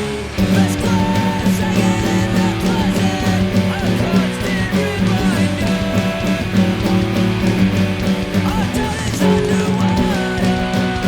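Acoustic guitar strummed in a steady rock rhythm, with a voice singing over it.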